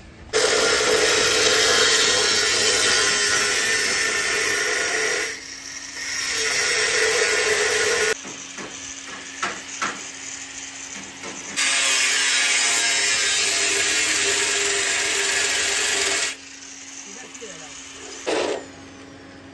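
Angle grinder cutting or grinding car-body steel in long bursts of several seconds each, with short pauses and a few knocks between, and a brief blip near the end.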